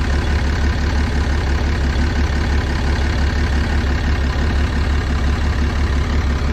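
6.7 L Cummins inline-six turbo diesel idling with an even low pulse, during an injector kill test with number 2 injector switched off, to judge whether that injector is worn.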